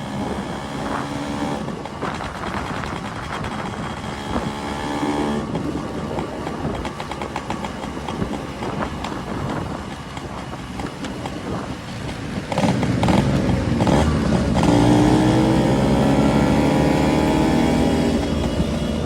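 Two-stroke Yamaha RX-series motorcycle engines running as the bikes ride. About twelve seconds in one gets much louder, and a few seconds later its pitch climbs as it revs up and accelerates.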